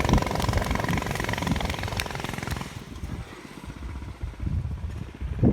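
Small dirt bike's engine running at speed as it rides past, then fading away about three seconds in, leaving only faint low thumps.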